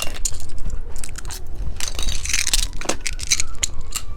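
Close-up crunching and crackling of candy being bitten and chewed, in a dense run of irregular crisp clicks.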